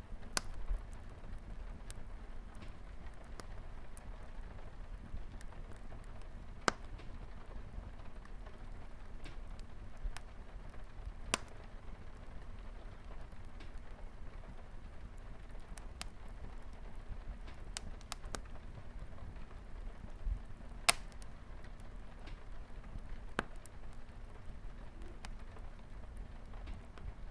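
Light rain falling steadily on a window, with a fire crackling: scattered sharp pops at irregular intervals, the loudest about 21 seconds in.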